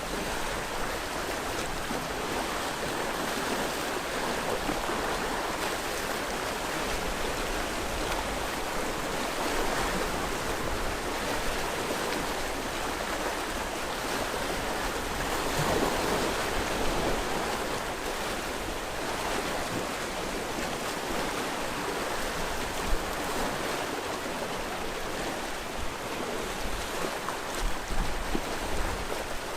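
Sea waves washing onto the shore in a steady rush, swelling louder about halfway through, with a few sharper surges near the end.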